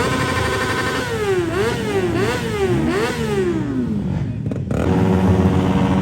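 Motorcycle engine revved up and down about three times in quick succession, then after a brief break running at a steady pitch.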